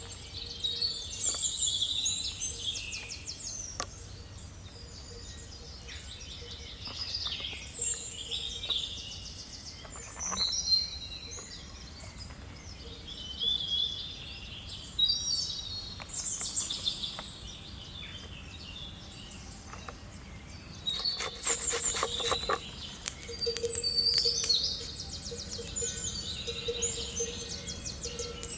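Several songbirds chirping and trilling on and off, with a short run of sharp clicks or taps about three quarters of the way through.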